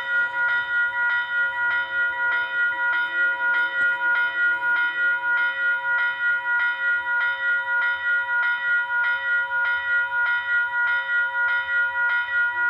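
Railroad grade-crossing warning bell ringing steadily, about two strokes a second, while the gates are down for an approaching train.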